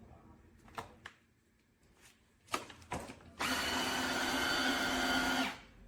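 A few light clicks, then the Tineco iFLOOR 3 wet-dry vacuum's motor starts about three and a half seconds in, runs with a steady whine for about two seconds and cuts off. The machine is shutting itself down on a fault, with a 'restart or contact customer service' error.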